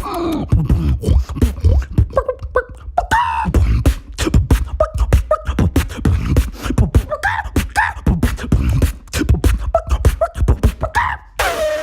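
Beatboxer's vocal percussion: a fast, dense run of mouth clicks and low kick-drum thumps with short squeaky calls that slide up and down woven in. Near the end a long call begins, sliding down in pitch.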